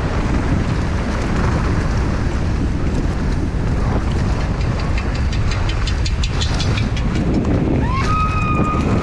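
Wind rushing over an action camera and the steady rumble and rattle of a downhill mountain bike ridden fast over a dry, rough trail, with a run of sharp rattling clicks about halfway through. A short high squeal sounds near the end.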